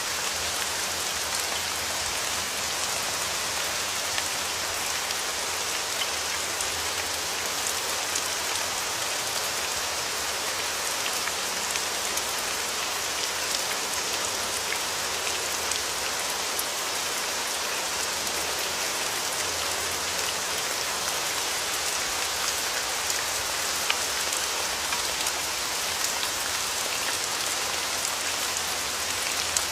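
Steady rain falling on a surface, an even hiss with many small drop ticks and a few sharper single drops.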